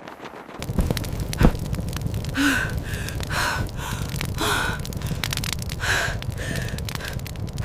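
A person gasping for breath in repeated short, breathy pants over a low steady rumble. A single sharp knock comes about one and a half seconds in.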